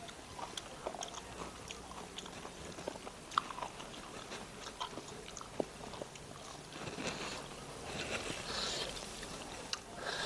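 Close-up eating sounds: chewing with moist mouth clicks and small crunches, in small irregular bursts.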